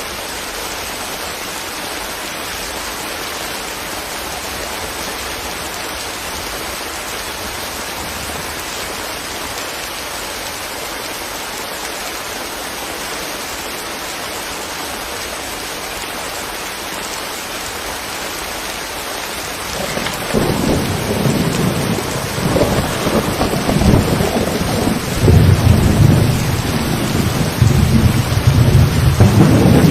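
Steady rain falling. About two-thirds of the way in, a long rolling rumble of thunder builds up, swelling in waves and growing louder than the rain.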